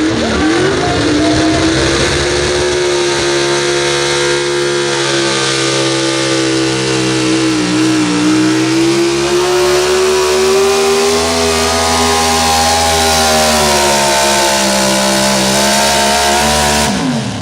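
Super Stock 4x4 pulling truck's engine held at high revs under full load down the track, the pitch sagging briefly about halfway, then dropping sharply near the end as the throttle comes off.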